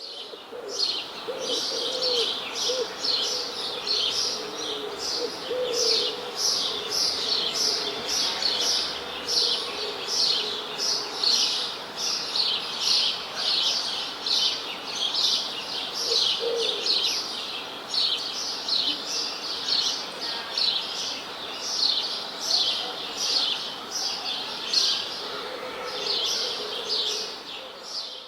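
A flock of small birds chirping continuously in quick, repeated high chirps, several a second, with a lower call breaking in now and then.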